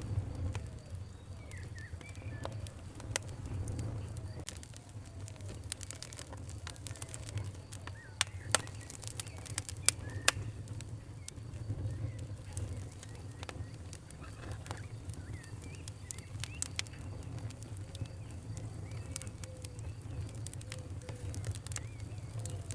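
Wood fire crackling, with irregular sharp pops over a low steady rumble. A few louder pops stand out about eight and a half and ten seconds in. Faint short chirping whistles come and go.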